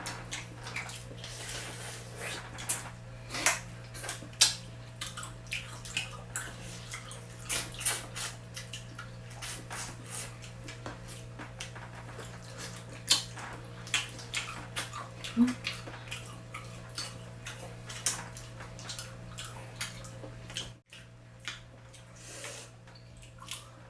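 Close-up eating sounds of seafood: irregular wet smacks and clicks of chewing and sucking, over a steady low electrical hum.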